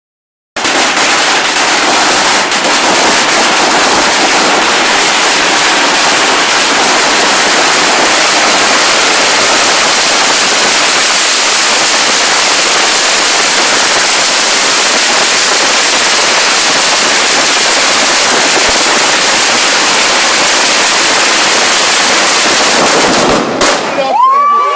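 A string of Chinese firecrackers going off in a dense, unbroken crackle for over twenty seconds. It stops suddenly near the end, leaving a few short gliding whistles.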